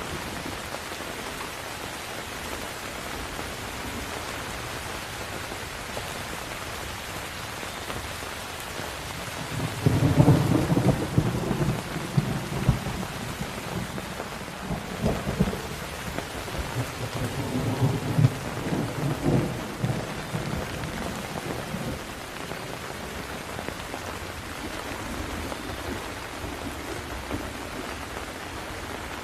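Steady heavy rain falling, with a long low rumble of thunder starting about ten seconds in, swelling again a little later and dying away after about ten seconds.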